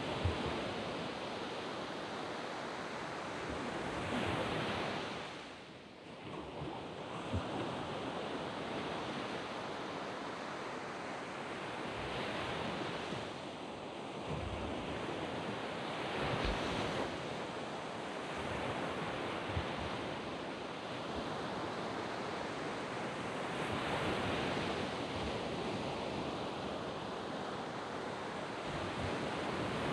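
Surf breaking on a sandy beach: a continuous wash of waves that swells louder every several seconds as each wave breaks, with a brief lull about six seconds in.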